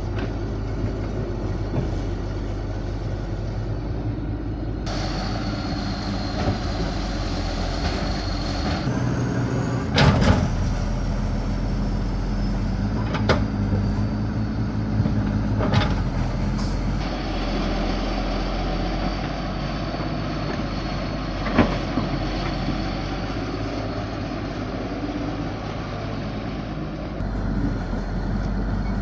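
A heavy machine's engine running steadily, with sharp knocks every few seconds. The background changes abruptly several times.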